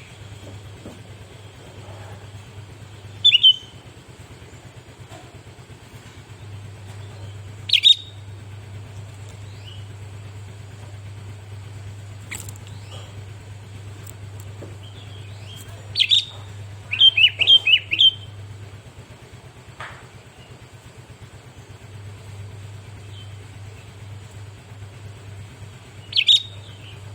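Sooty-headed bulbul (kutilang) giving short, sharp, loud calls every few seconds, with a quick run of several about two-thirds of the way through. A steady low hum lies underneath.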